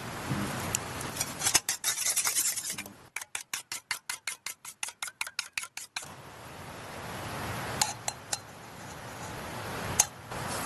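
Utensil clicking against a dish: a few scattered clicks and scrapes, then a fast, even run of about five clicks a second for some three seconds, like chopsticks beating in a bowl. After that a steady hiss, with a few single light clicks.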